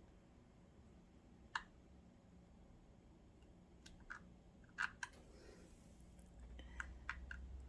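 Scattered light clicks and taps as a tool and nut are worked by feel against the sewing machine's internal parts. There is one click early, then a cluster of clicks from about four seconds in.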